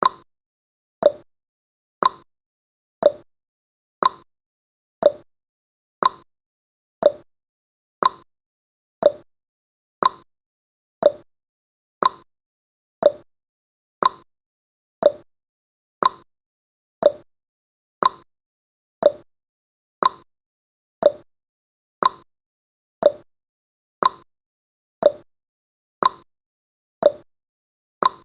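Clock-style ticking sound effect of a countdown timer: one short, sharp tick every second, steady throughout.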